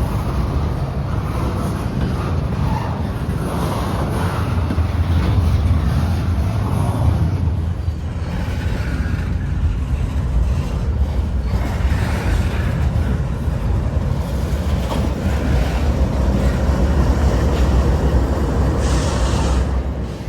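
Freight train rolling past with a steady, loud rumble of wheels on rail. A short hiss breaks through about a second before the end.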